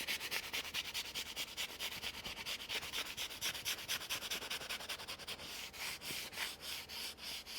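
Quick back-and-forth rubbing strokes, several a second, buffing black wax off a crackled milk-painted wood board; the strokes come a little slower near the end.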